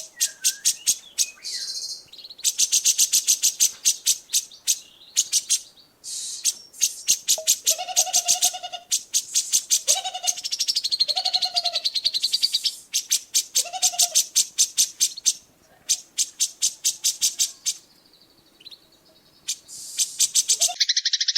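Songbird song recorded as masteran: fast runs of sharp repeated high chips and trills, broken by a few short, lower whistled notes in the middle.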